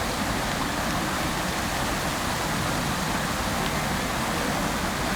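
Fountain water falling and splashing into its basin: a steady, even rush of spray with no breaks.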